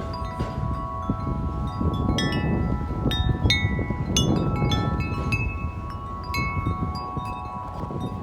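36-inch Corinthian Bells wind chime ringing in strong wind, its long tubes sounding held tones with a flurry of fresh strikes in the middle. A low rumble of wind runs underneath.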